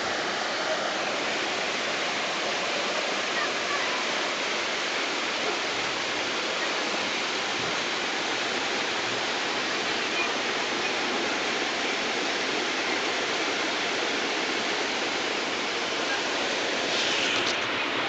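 Floodwater rushing in a steady, even roar of water noise, with a brief louder surge of hiss near the end.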